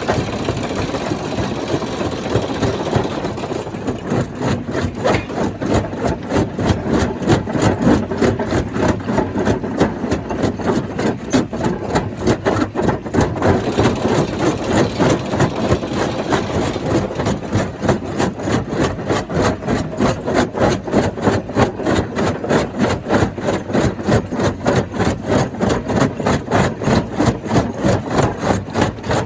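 Stone crusher plant running, a loud machine sound with a steady rapid pulsing of about four to five beats a second.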